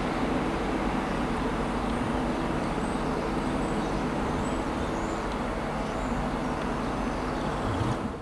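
Electric train, an InterCity 225 set with a Class 91 locomotive, running through the station: a steady rumble with a low hum, cut off sharply at the very end.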